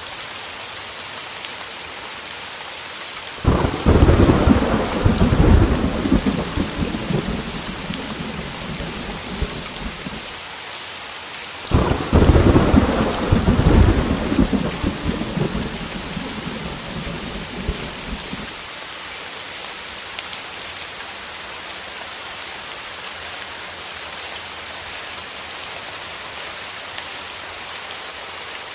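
Heavy rain hissing steadily, with two rolls of thunder: the first breaks in suddenly a few seconds in, the second about eight seconds later, and each rumbles for several seconds before fading back under the rain.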